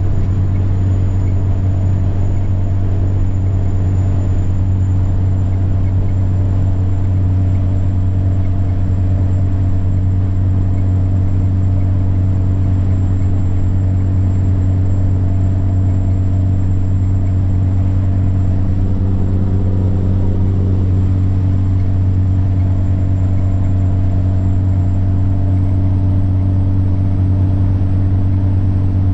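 Semi truck's diesel engine droning steadily under way, with a thin, high turbocharger whine held steady over it that edges up slightly near the end.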